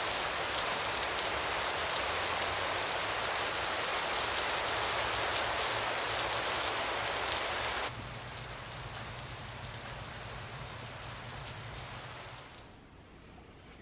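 Steady rain falling, a dense even hiss. About eight seconds in it cuts to a quieter rain, which fades away near the end.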